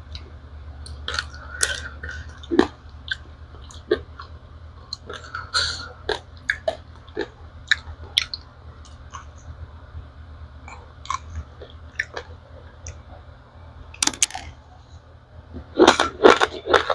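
Close-up chewing of dry-roasted raw rice grains: irregular crisp crunches and crackles as the hard grains break between the teeth, with a short burst about 14 seconds in and a dense run of louder crunching near the end.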